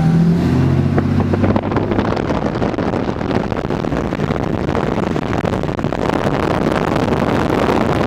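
A 2014 Dodge Ram 3500 pickup on the move. A steady engine note is heard for the first second or so, then gives way to even road and wind noise.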